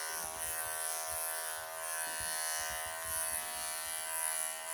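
Wahl professional electric pet clippers running steadily, shaving a matted Persian cat's thick coat close to the skin to get underneath the mats.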